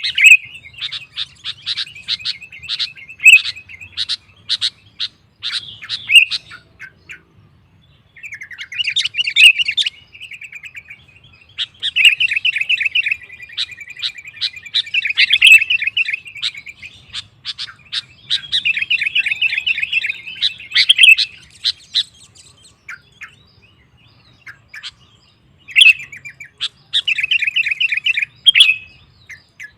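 Sooty-headed bulbul (kutilang) singing lively, in long bursts of rapid chattering notes broken by short pauses.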